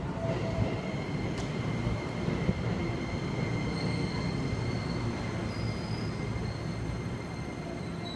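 Keikyu 1000 series electric train pulling into a station platform and slowing, its wheels rumbling on the rails, with a steady high-pitched whine and higher tones joining about halfway through.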